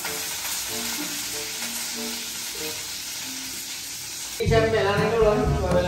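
Food frying in a pan on the stove: a steady sizzle, with faint background music under it. About four and a half seconds in, a louder tune comes in over the sizzle.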